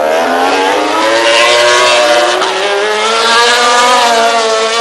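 An 800cc four-stroke MotoGP race motorcycle engine accelerating hard, its note climbing. It drops briefly about three and a half seconds in, then climbs again.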